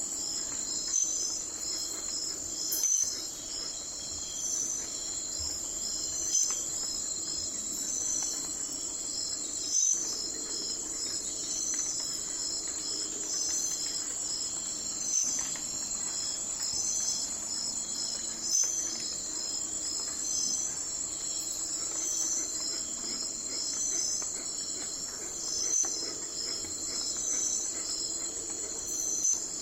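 Night-time forest insect chorus: a steady high trill, with a brighter chirp repeating about every second and a half.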